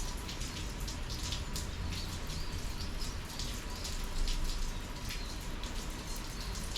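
Summer rain falling steadily, with many individual drops striking close by as irregular ticks over a constant wash of noise and a low rumble underneath.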